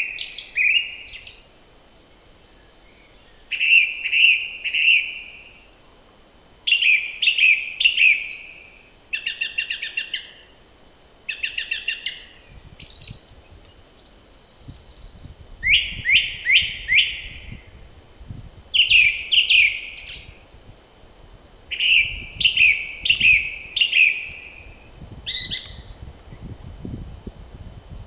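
Songbird in spring song, singing short phrases of quick repeated notes every two to three seconds, with a low wind rumble on the microphone in the second half.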